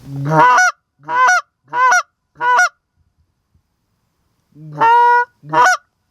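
Canada goose honks: four quick two-note honks, each breaking from a low note up to a high one, then after a short pause a longer honk and a final short one, very loud and close.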